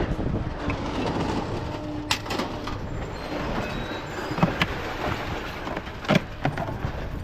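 Vehicle running with a steady low rumble, and a few sharp clanks or knocks, about two seconds in, around four and a half seconds and near six seconds.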